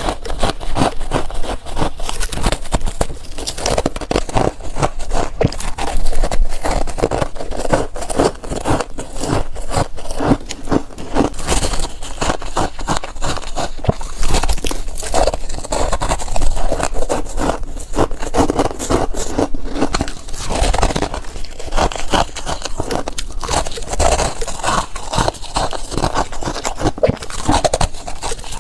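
Close-miked biting and chewing of chunks of coloured freezer frost, with dense, irregular crunching throughout and a few louder bites.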